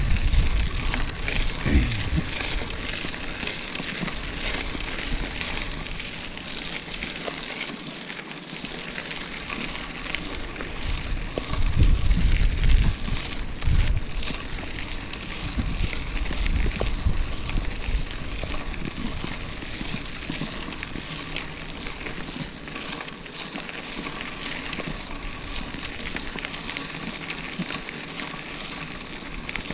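A mountain bike rolling over rough ground: a steady rough hiss from the tyres with many small clicks and rattles, and wind buffeting the microphone in low gusts, heaviest about twelve to fourteen seconds in.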